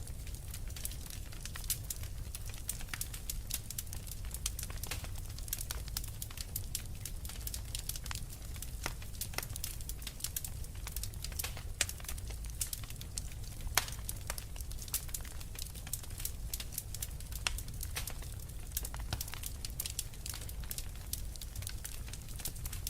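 Wood fire crackling with frequent sharp pops, a couple of louder snaps in the middle, over a steady low rumble.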